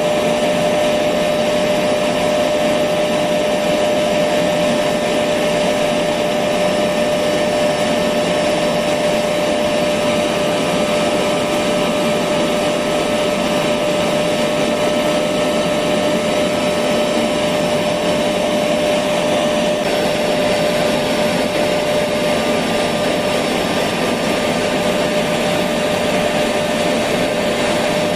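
Electric vacuum cleaner running steadily: a continuous rushing motor noise with a steady mid-pitched whine that holds the same level throughout.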